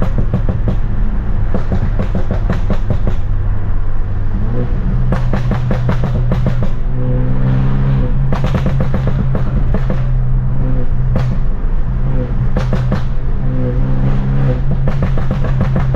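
Straight-piped, tuned BMW F30 328i's turbocharged four-cylinder exhaust droning under way, its note stepping up about four seconds in. Repeated sharp pops and crackles come in clusters from the exhaust burble tune.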